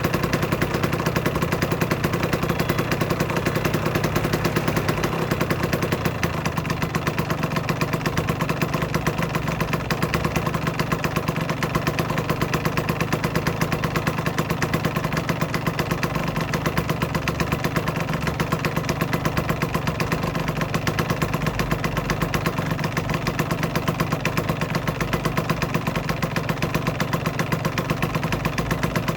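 Aprilia RS125's single-cylinder two-stroke engine idling steadily, with an even, rapid pulse.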